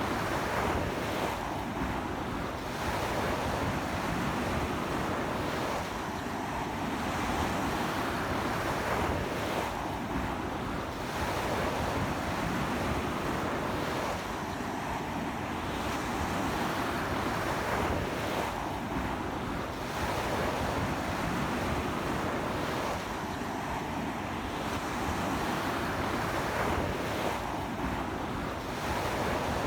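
Sea waves washing onto a beach in strong wind: a steady rush of surf that swells and eases about every four seconds.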